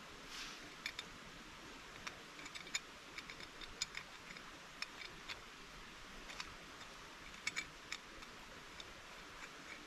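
A scatter of sharp little clicks and ticks at irregular intervals, a dozen or more, over a steady faint hiss.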